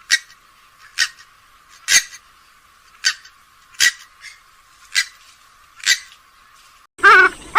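Grey-headed swamphen giving short, sharp call notes about once a second, seven in all. Near the end a louder, harsher call with a wavering pitch breaks in.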